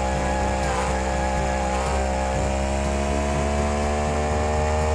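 A steady, buzzing motor drone that holds one pitch throughout.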